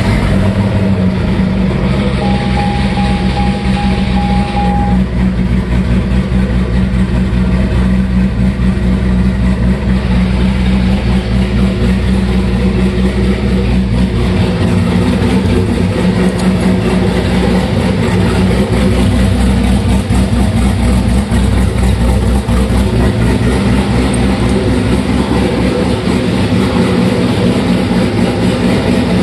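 Twin-turbo 2005 Corvette's LS2 V8, with built heads and a BTR Stage 2 turbo cam, idling steadily on its first run. A warning chime beeps in a quick row of short beeps about two seconds in.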